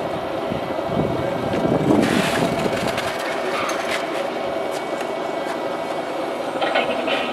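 Radio-controlled model trucks running, with a steady whine of small motors and gears and a louder rush of noise about two seconds in.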